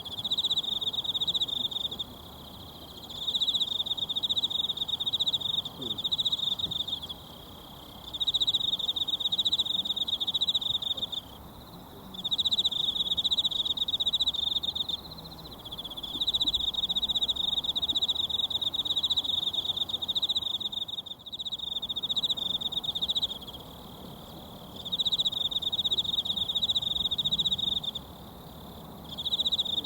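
An insect trilling at one high pitch in repeated bouts a few seconds long, with pauses of about a second between them, over the faint rush of a mountain stream.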